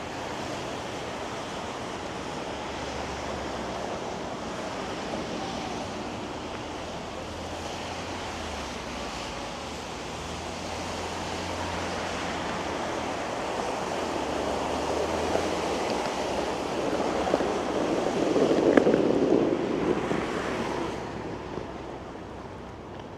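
Steady hiss of city street traffic, with a vehicle passing close that swells to its loudest about eighteen to twenty seconds in and then fades away.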